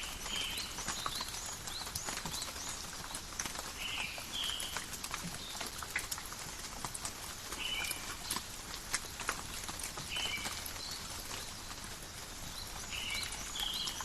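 Steady forest rain with drops pattering and dripping on leaves. An animal gives short, high two-part calls about every three seconds, with fainter higher chirps between them.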